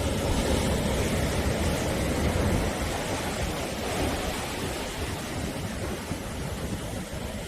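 Sea waves breaking and washing on the shore in a continuous surf wash with a deep rumble, a little louder over the first couple of seconds and then easing.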